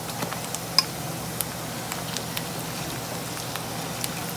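Hot oil and onions sizzling in a pan as yogurt-marinated chicken pieces go in, a steady frying hiss with sharp crackles and pops, one louder pop about a second in.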